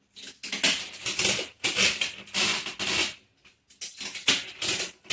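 A run of short, uneven rustling and scraping sounds, about two or three a second, like something being handled or rubbed.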